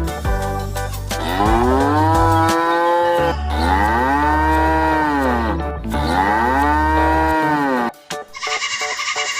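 Cow mooing three times, each a long call that rises and then falls in pitch, over background music with a steady low bass.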